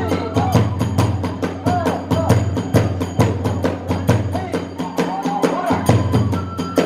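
Kagura hayashi ensemble playing: a taiko drum and small hand cymbals beating a quick, steady rhythm under a transverse bamboo flute melody that slides up and down in pitch.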